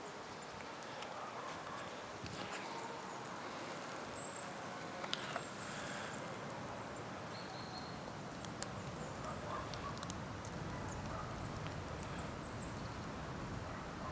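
Outdoor ambience in grassland by a forest: a steady faint rustling hiss with scattered small clicks and a few brief high chirps.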